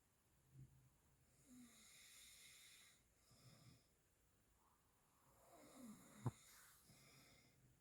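A Maltese dog snoring faintly in its sleep: a few soft, hissing breaths. There is one sharp click about six seconds in.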